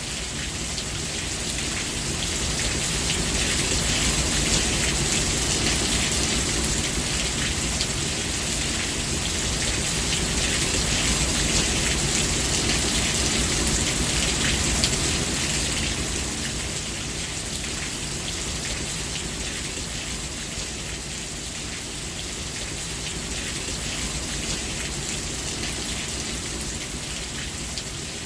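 Steady heavy rain falling, a dense patter of drops that swells for about the first half and then eases slightly.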